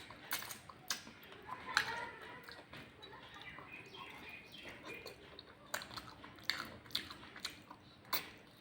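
A person chewing a mouthful of rice and curry close to the microphone, with irregular short smacking clicks.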